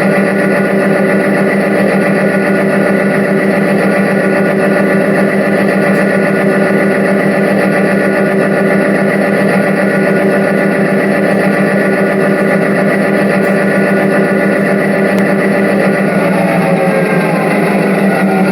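Diesel locomotive engine running steadily at a constant speed.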